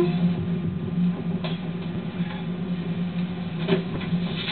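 Train cab noise while running: a steady engine or traction drone, with a few sharp clicks and knocks from the running gear on the track.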